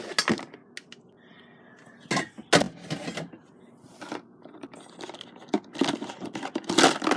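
Irregular handling noises: a string of short clicks, knocks and rustles, with a louder clatter about two and a half seconds in and another near the end.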